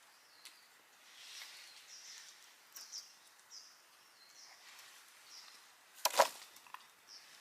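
Wood campfire burning with a soft hiss and small ticks, and one loud sharp crackling pop about six seconds in.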